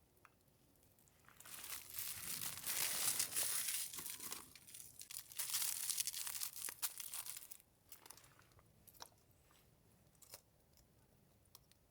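Packaging being crinkled and torn open in two long handling spells, followed by a few light clicks and taps.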